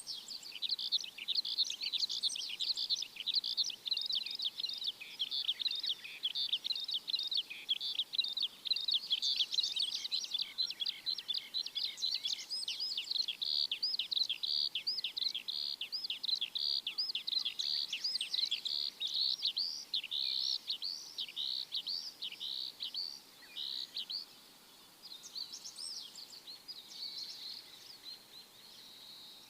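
Small birds chirping and twittering in a dense chorus of short, high calls, many a second; the chorus thins out near the end.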